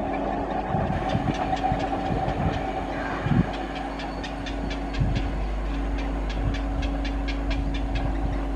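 Indian Railways EMU local train approaching at speed: a steady hum with a quick, even ticking of about four or five ticks a second.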